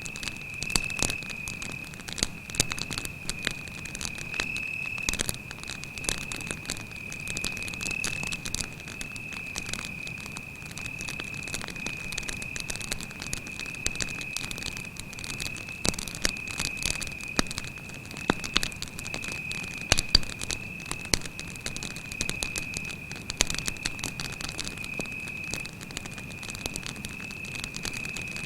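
Wood campfire crackling with frequent irregular sharp pops, over a cricket's continuous high-pitched trill.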